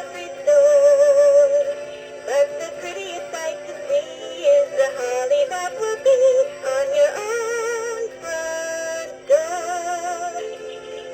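Electronic singing bird toy playing a song in a synthesised voice: a melody of held, warbling notes over a steady low hum, stopping near the end.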